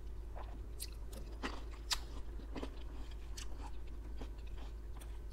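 A person chewing and biting into green grapes close to the microphone: irregular wet crunches and clicks, the loudest about two seconds in.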